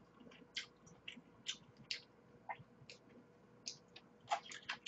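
Close-miked eating sounds: faint wet mouth clicks and lip smacks while chewing, roughly two a second, with a quicker run of clicks near the end as another bite goes in.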